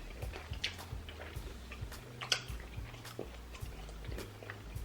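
A person chewing food, with scattered small mouth clicks and smacks.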